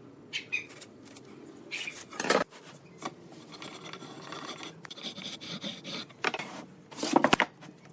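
A hand tool rasping and scraping on wood in irregular strokes, with two louder, sharper strokes about two seconds in and near the end.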